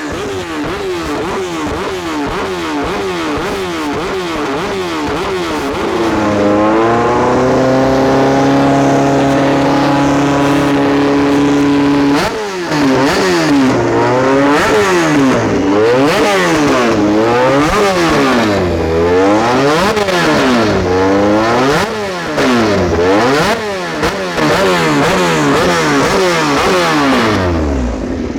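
Motorcycle engines revving hard, their notes climbing and dropping again and again as several bikes overlap. A single steady held engine note runs for several seconds in the middle, then the sharp rise-and-fall sweeps return.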